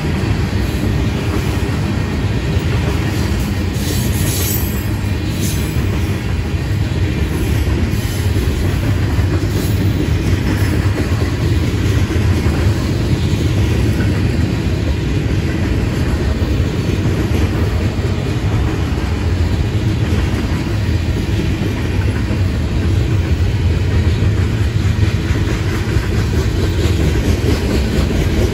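Freight cars of a long mixed freight train rolling past close by: a steady, loud rumble of steel wheels on rail.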